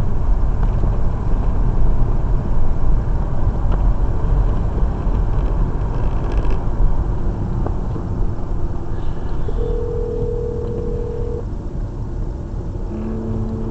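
Steady road and engine noise inside a moving car's cabin. Partway through, a steady tone sounds for about two seconds, the phone's ringing tone as the call goes through, with more steady tones near the end.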